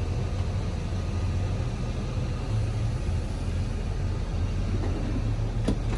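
A steady low engine rumble running at a constant pace, with a single sharp click near the end.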